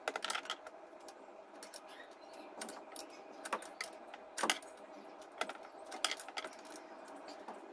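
Scattered light metallic clicks and clinks of tools and parts being handled while fitting the supercharger drive belt, irregular and unevenly spaced, the loudest about halfway through, over a faint steady hum.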